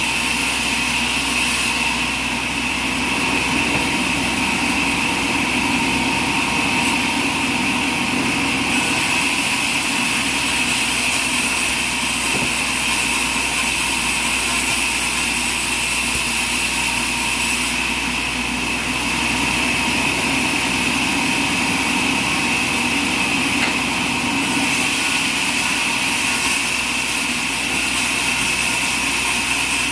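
Sawmill machinery running steadily, with a high, even whine over a low hum.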